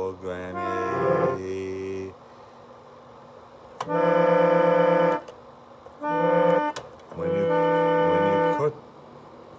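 Background music played on a keyboard: held chords, each lasting about one to one and a half seconds, with short pauses between them.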